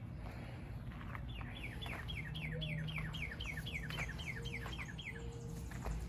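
A songbird singing a long run of quick down-slurred notes, about four a second, starting about a second in and ending near the end, over a steady low rumble.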